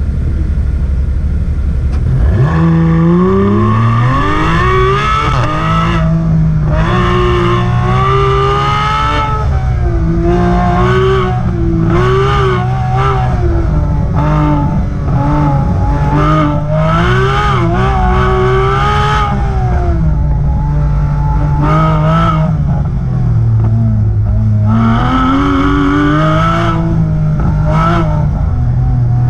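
2015 Porsche 991 GT3's 3.8-litre flat-six exhaust through Soul Performance valved side-muffler bypass pipes, valves open, on the stock center muffler. It runs low and steady at first, then about two seconds in it launches hard and revs up. The pitch keeps rising and falling as the car accelerates and slows between corners on an autocross run.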